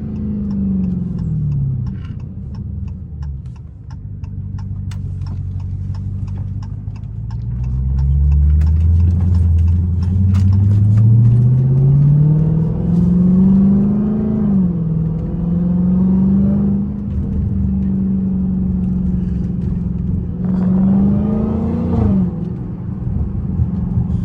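Straight-piped Dodge Challenger Hellcat Redeye's supercharged 6.2-litre V8 exhaust while driving: revs fall at first and settle low, then climb steadily from about eight seconds in, drop at a gear change and hold steady, then rise and drop once more near the end. Scattered sharp ticks come through during the first half.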